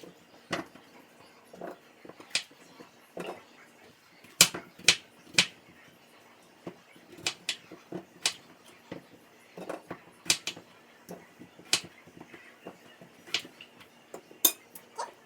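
Irregular sharp knocks and clicks of a knife striking a cutting board while vegetables are peeled and cut, some a second apart and some in quick pairs.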